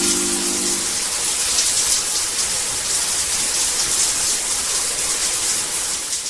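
Shower running: a steady spray of water falling, ending abruptly near the end.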